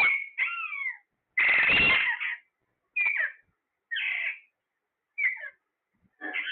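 Pet parrot calling: a string of about seven short squawks and whistled calls with gaps of silence between them, including one longer, harsher screech about one and a half seconds in.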